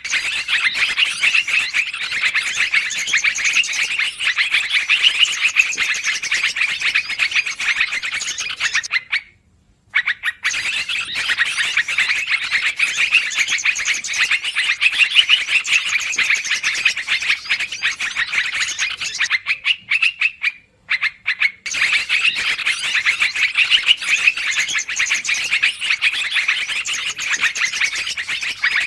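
Recorded yellow-vented bulbul (trucukan) calls used as a bird lure: a busy, noisy chatter of rapid notes, in long stretches broken by two short pauses about ten and twenty-one seconds in.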